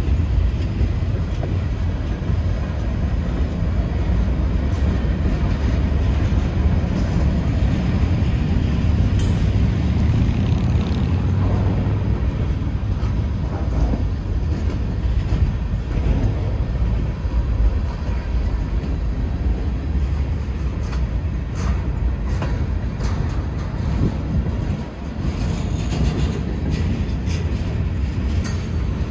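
Norfolk Southern freight train rolling past: a steady low rumble of wheels on rail, with scattered clicks and knocks from the wheels and cars.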